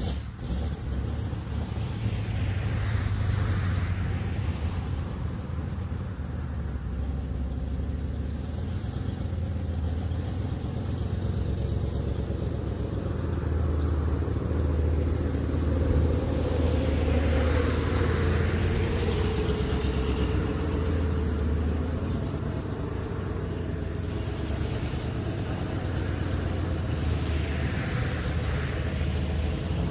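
Truck engine running steadily with a low hum, a broader hiss swelling and fading a few times.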